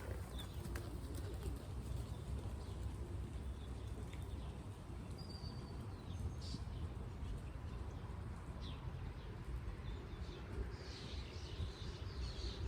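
Wild birds chirping now and then, with a cluster of calls near the end, over a steady low rumble on the microphone.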